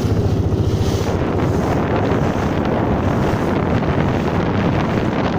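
Strong wind buffeting the microphone over choppy water, as a steady loud rush. A low, fast throb, like a boat engine, fades out about a second in.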